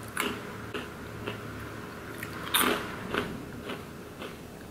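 A person chewing crunchy hot Cheetos close to the microphone: about eight crisp crunches at uneven intervals, the loudest a little past halfway.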